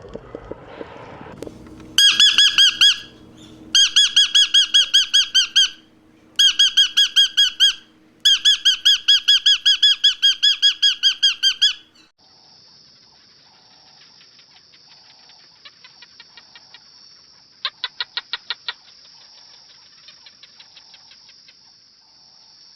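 A bird's rapid strings of high, squeaky calls in four loud bursts, followed by a quieter steady high whine with fast ticking chirps.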